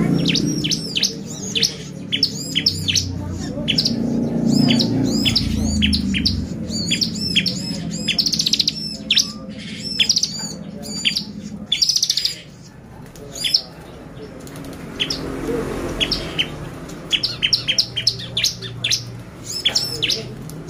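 Bar-winged prinia (ciblek) singing vigorously: a rapid run of sharp, arching high chirps broken by short buzzy trills, with a brief lull about midway. It is the full, excited song that keepers play to provoke other ciblek into singing.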